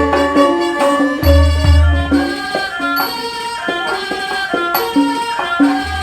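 Thai classical ensemble playing a hom rong overture: melodic instruments over deep drum strokes, with a small cymbal struck about every two seconds.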